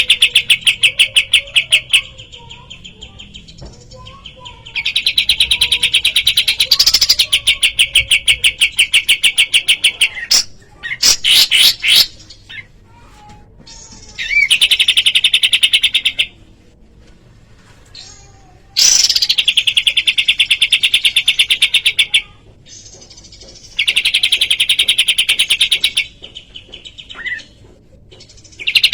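Kapas tembak birdsong: loud bouts of rapid, evenly pulsed chattering trills, each lasting a few seconds, with short gaps and a few brief separate calls between them.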